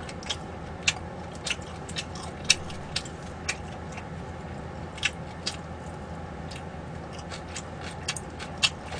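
Close-miked eating sounds while chewing wood-fired duck: short, sharp mouth clicks and smacks at irregular intervals, about one or two a second.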